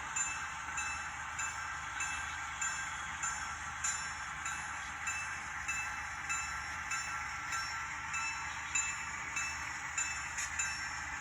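Model train running, with a locomotive bell ringing steadily, a little under two strokes a second, over a constant hum and hiss.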